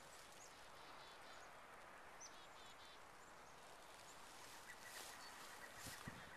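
Near silence: faint outdoor ambience with a few distant bird chirps about two seconds in, and a faint rapid high call starting near the end.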